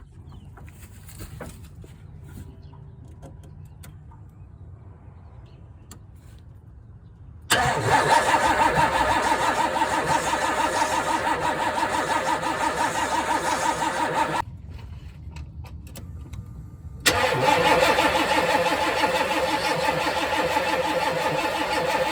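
A 1992 Chevy Silverado's throttle-body-injected engine being cranked by the starter in two long tries, about seven and six seconds, with a short pause between. It turns over without firing: there is no spark, which the owner puts down to a bad ignition control module.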